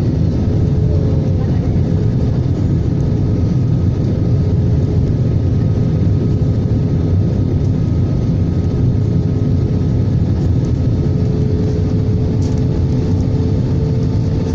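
Airbus A320 on its landing approach: steady loud rumble of its jet engines and airflow, with a faint steady whine above it.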